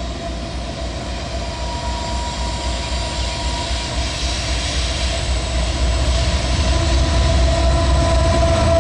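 CSX intermodal freight train's diesel locomotives approaching, their engines rumbling and growing gradually louder as they near, with a steady whine over the rumble.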